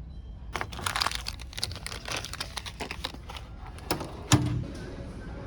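Rapid crinkling and clicking, like objects or packaging being handled, for about three seconds, then a single thump about four seconds in.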